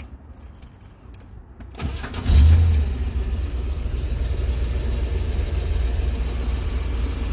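A 1964 Chevrolet Corvette's 327 V8 starting about two seconds in, revving briefly as it catches, then settling into a steady idle.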